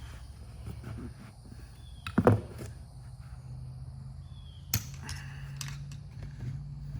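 Hand tools knocking and clicking on metal parts: a loud double knock about two seconds in and a sharp click near the end, over a low steady hum that comes in about halfway.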